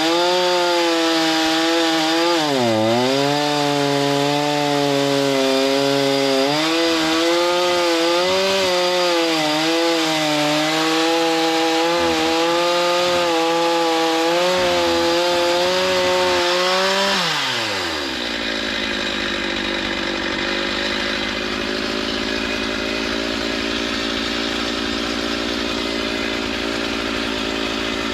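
Two-stroke chainsaw running at high revs while milling lumber, its pitch wavering and dipping briefly about three seconds in. About seventeen seconds in it drops to a steady idle.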